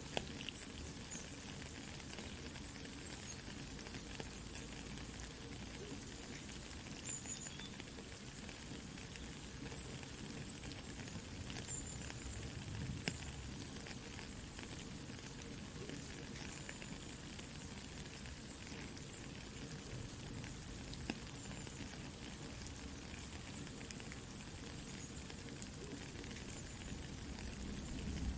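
Soft rain pattering mixed with a crackling campfire: a steady hiss with scattered small pops and a low rumble underneath.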